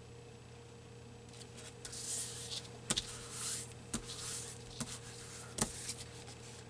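Paper being handled and rubbed down on a card, in several short swishing strokes, with three or four sharp taps in between.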